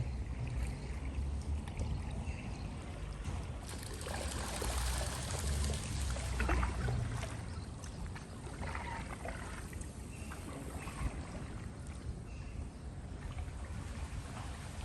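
Water splashing and trickling as a small boat is rowed, the strokes busiest about four to seven seconds in, over a low rumble.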